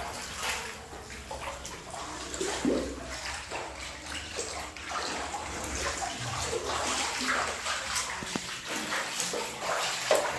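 Floodwater splashing and sloshing in an irregular run of small splashes.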